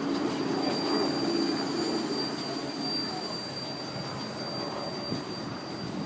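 Railway train rolling past on the track, a steady rumble with a thin, high, steady squeal over it.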